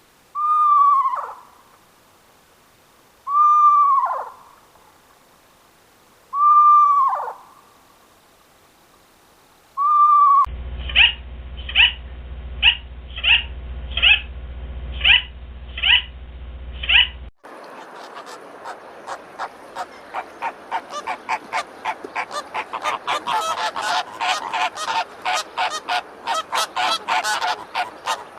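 Animal calls from three spliced recordings. First come four pitched calls about three seconds apart, each dropping in pitch at its end. Then a run of eight short calls over a steady low hum, and from about seventeen seconds in a fast series of rasping pulses that grows louder.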